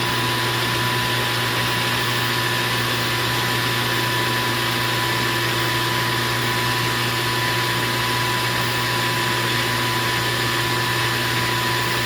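Metal lathe's electric motor giving a steady, unchanging hum.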